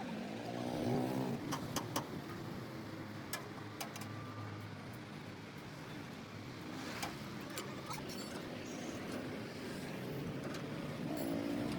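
Vehicle engine noise with a steady background rumble, broken by scattered sharp clicks and knocks.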